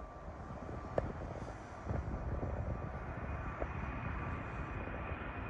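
Four turbofan engines of a Boeing 747-400 rumbling during its takeoff run, with a faint steady whine above the rumble. The rumble gets louder about two seconds in. A single sharp click sounds about a second in.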